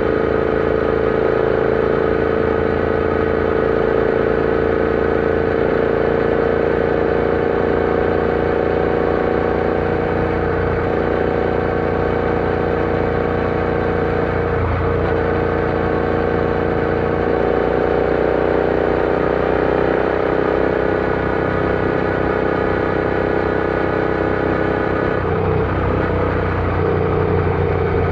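Royal Enfield Interceptor 650's parallel-twin engine running steadily under way, its pitch drifting only a little up and down.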